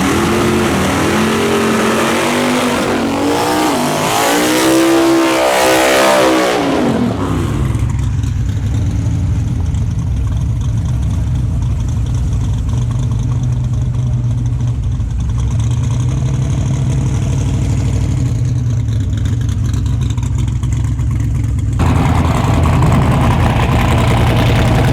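Car engine revving up and down several times, then settling into a steady low idle about eight seconds in; broader engine and crowd-type noise returns near the end.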